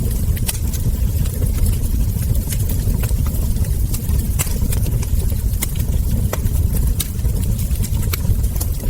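Wood fire crackling: frequent irregular sharp pops and snaps of burning logs and embers over a steady low rumble.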